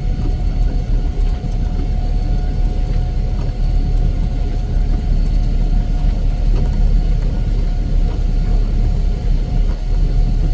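Heavy snow-removal vehicle's engine running steadily: a deep, even rumble with a faint constant whine above it.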